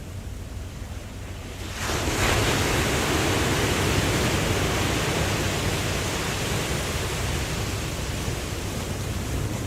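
Ocean wave breaking: over a low steady rumble of surf, a loud rush of water comes in suddenly about two seconds in and slowly dies away.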